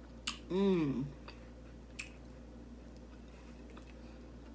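Eating sounds: a sharp mouth click, then a short hummed "mmm" that rises and falls in pitch, and another small click about two seconds in, over faint chewing.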